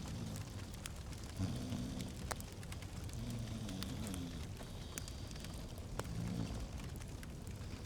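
Fireplace fire crackling, with scattered sharp pops and snaps over a low, steady rumble.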